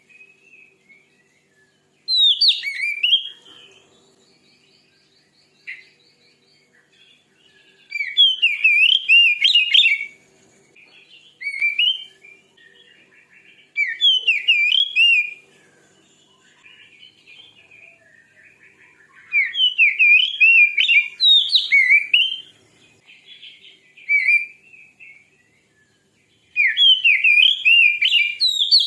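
Oriental magpie-robin (kacer) singing a fierce, aggressive song: loud bursts of rapid, varied whistled notes, about six phrases with short pauses between them.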